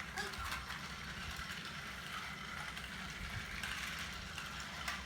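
Toy trains running on a track: a steady faint mechanical whir with light clicking, a little stronger near the end.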